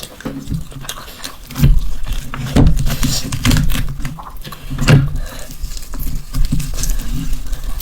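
Close-miked eating sounds of mutton mandi being eaten: irregular wet chewing and mouth clicks, with a few louder smacks about two and five seconds in.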